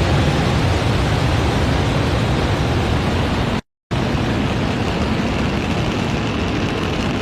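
Falcon 9 rocket's nine Merlin first-stage engines at full thrust during ascent just after liftoff: a steady, dense rumble of noise, strongest in the low end, that drops out completely for a split second about three and a half seconds in.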